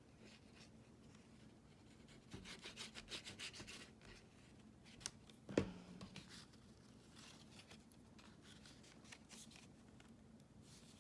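Faint, quick rubbing strokes on paper for about a second and a half, a few seconds in, then a couple of soft clicks and light scratching as the paper is worked.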